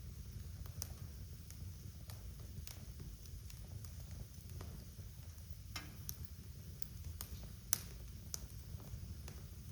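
Wood fire crackling in a fireplace: irregular sharp pops and snaps over a low steady rumble, with the loudest pop nearly eight seconds in.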